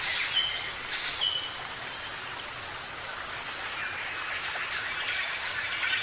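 Birds chirping and calling over a steady hiss, with two short whistled notes in the first second and a half and a busier patch of chirps near the end.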